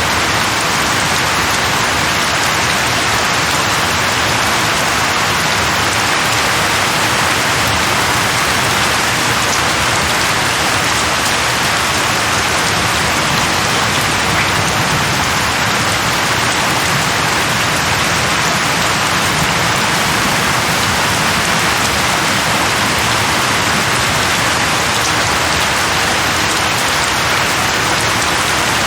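Steady heavy rain falling on a surface: a dense, even hiss of drops with no change in strength.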